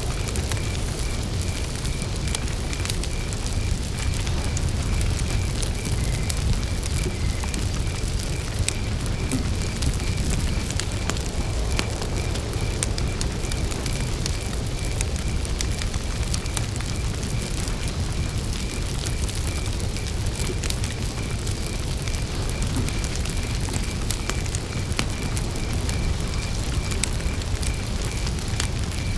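Wood campfire burning with a steady low rumble and scattered crackles and pops, while crickets chirp in an even, unbroken pulse.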